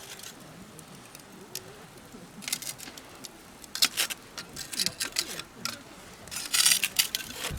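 Wood campfire crackling: irregular sharp snaps and pops in clusters, with a dense burst of crackles near the end.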